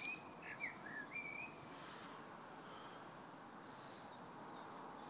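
A songbird giving a quick series of short whistled notes, some rising and some falling, over the first second and a half, followed by faint steady outdoor background hiss.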